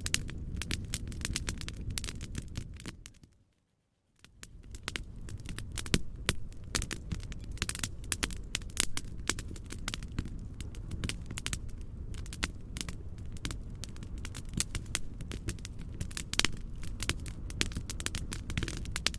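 Wood fire crackling in a fireplace: dense, irregular pops and snaps over a steady low rumble of white noise. About three seconds in, it all fades out to silence for under a second, then fades back up.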